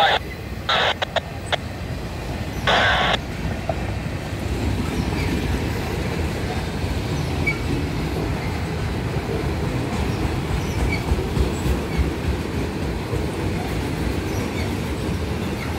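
Freight train cars rolling past on the rails: a steady low rumble of wheels and cars. Two short bursts of scanner-radio noise come in the first three seconds.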